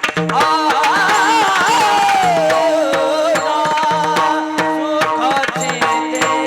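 Varkari kirtan music: a singer holds a wavering, ornamented vowel phrase that slides down in pitch over about three seconds, over steady sustained notes and a running beat of mridang strokes.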